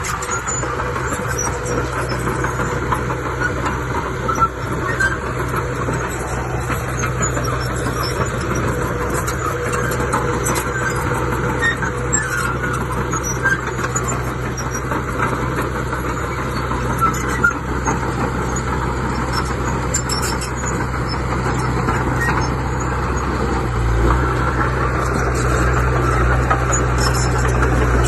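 Diesel engine of heavy earthmoving machinery running steadily, with scattered clanks and ticks over it. Near the end the low engine note changes and gets louder, as the machine comes under more load or throttle.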